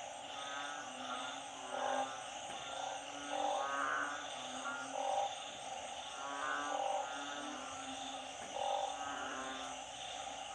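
Night chorus of frogs after heavy rain: narrow-mouthed frogs and small frogs calling over and over, one croak about every second or so, over a steady high-pitched trilling chorus.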